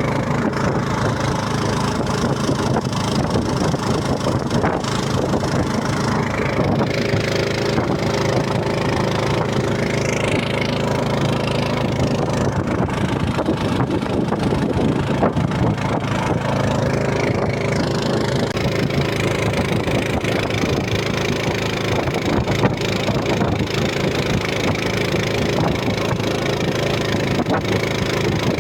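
An engine running steadily at an even speed, its pitch shifting slightly a couple of times.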